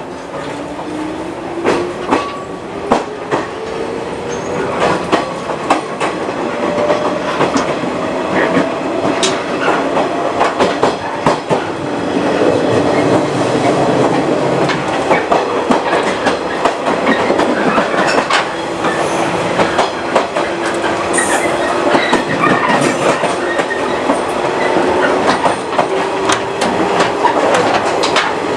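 A JR 115 series electric multiple unit accelerating. The MT54 traction motors give a whine that rises in pitch over the first ten seconds, then a lower whine climbs again through the rest, over steady running noise and the clickety-clack of wheels on rail joints.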